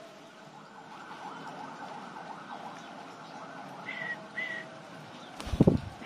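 Birds calling in an aviary: faint wavering chatter, then two short whistled notes about four seconds in. Near the end comes a loud low thump, the loudest sound here.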